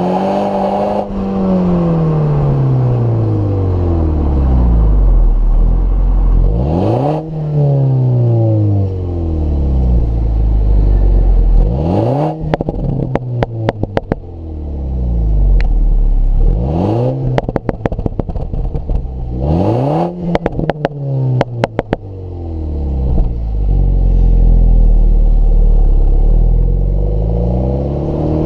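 2015 MINI Cooper S turbocharged four-cylinder exhaust, revved up and let fall again several times. Quick pops and crackles come on the overrun after the blips, about twelve and twenty seconds in. A longer build in revs starts near the end and is held high.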